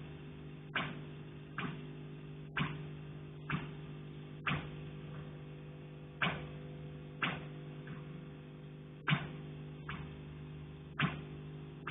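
Repeated knocking carried through the building structure, about one knock a second at an uneven pace, over a steady low hum.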